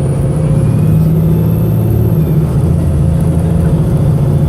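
VDL SB200 bus engine running hard under load, a loud steady drone with a faint high whine rising in the first second. The engine is misfiring.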